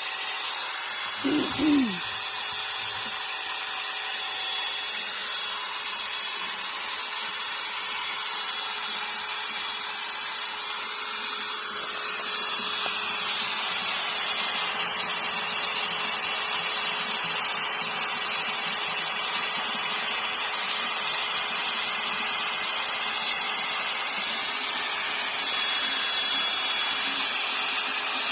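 Electric drill running a drill-powered water pump: a steady motor whine over a continuous hiss. A brief squeal comes about a second and a half in.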